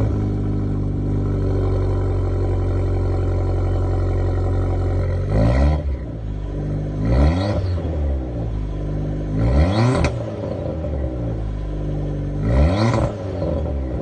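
Modified Abarth 500/595's 1.4-litre turbo four-cylinder with an aftermarket exhaust idling steadily. From about five seconds in it is blipped four times, each rev rising and falling back to idle.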